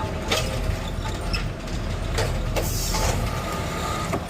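Garbage truck's engine running under load while its automated arm lifts and empties a cart, with several clunks and knocks. There is a short hiss of air about two and a half seconds in, and a thin steady whine near the end.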